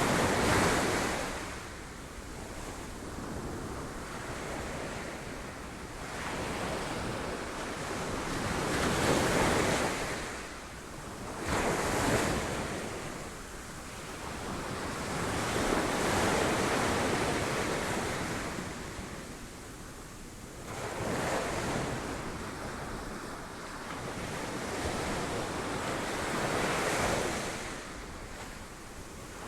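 Sea waves breaking on rocks: a steady wash of surf that surges and falls away every few seconds, with louder breaks near the start, around a third of the way in and again near the end.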